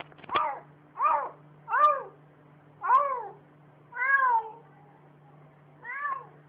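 A domestic cat meowing repeatedly: about seven short meows, each rising then falling in pitch, roughly one a second with a longer gap near the end.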